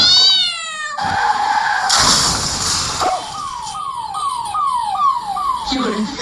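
Edited comedy sound effects: a falling whistle-like glide, a noisy burst, then a run of about six quick descending tones, ending in one more drop in pitch.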